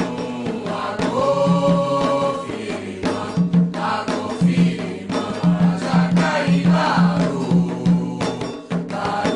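Voices singing a religious chant together over a steady, pulsing beat.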